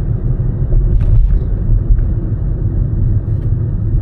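Car driving along at road speed: a steady low rumble of engine and road noise.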